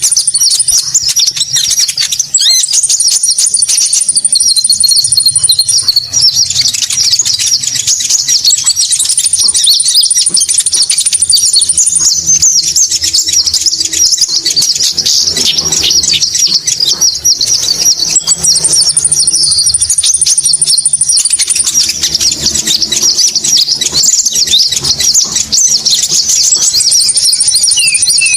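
Bird-lure recording of konin bird calls: dense, continuous high chirping, with a thin high trill that comes back for a couple of seconds every few seconds.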